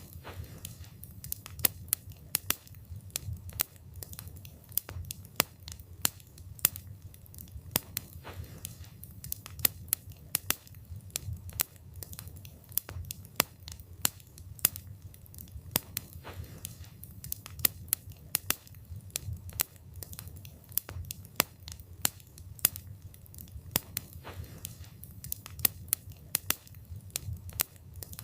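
Wood fire burning with a steady low rumble and frequent sharp crackles and pops from the burning wood, several a second at irregular intervals.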